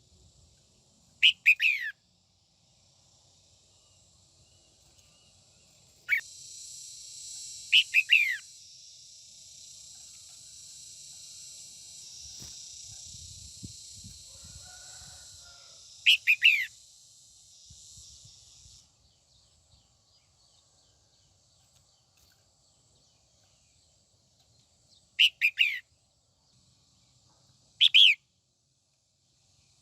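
Female red-whiskered bulbul singing about six short, loud phrases, each a quick run of falling notes, spaced irregularly. A steady high hiss sits underneath from about six to nineteen seconds in.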